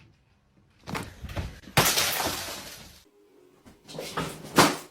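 A sudden loud crash about two seconds in, fading away over about a second, then a sharp knock near the end.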